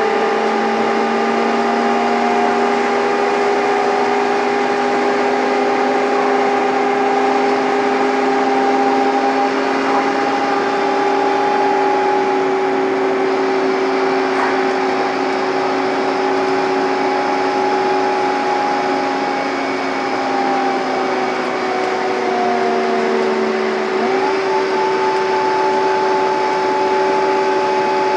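Scania N230UD double-decker bus engine pulling hard uphill, heard from on board, with the whining vacuum-cleaner-like 'hoover thrash'. The revs hold steady, sag slowly for a few seconds, then jump up sharply near the end as the bus changes down a gear.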